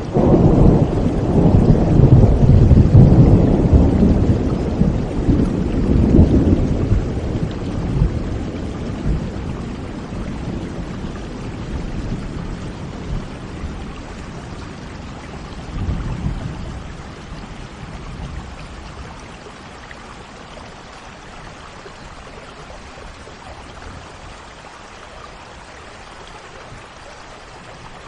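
Steady rain with rolling thunder: a long low rumble right at the start that slowly fades over about ten seconds, then a smaller rumble about halfway through, leaving only the rain hiss.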